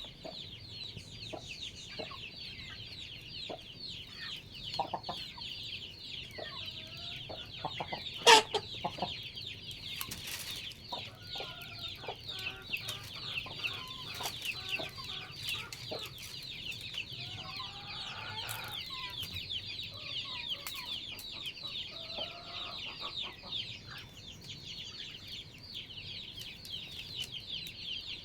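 Backyard chickens clucking on and off over a steady, high-pitched buzzing chorus in the background, with one sharp click about eight seconds in.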